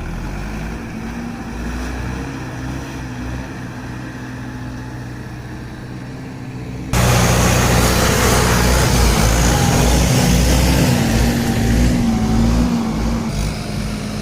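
Diesel tractor engines running under load, with a sudden jump about seven seconds in to a louder stretch where the engine pitch rises and falls as it works.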